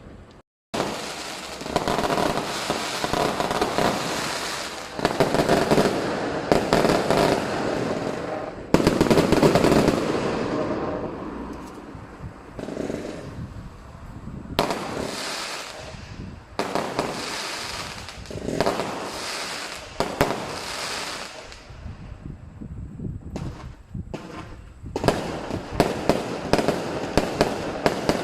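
Fireworks and firecrackers going off without pause: dense crackling with many loud bangs, and a quicker run of sharp cracks near the end. The sound drops out for a moment just after the start.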